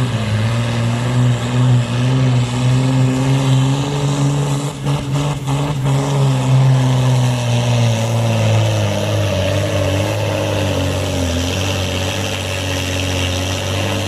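Supersport pulling truck's diesel engine running flat out under load, the pitch steady at first and then slowly sinking over the second half as the engine slows under the growing drag of the sled.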